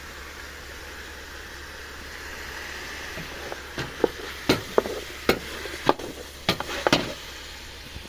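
Cooking on a wood-fired stove: a steady sizzling hiss, with a run of sharp clicks and pops about halfway through.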